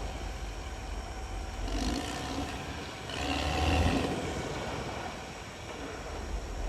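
CAT D6R XL bulldozer's diesel engine running under load, swelling in loudness about two seconds in and again between three and four seconds in.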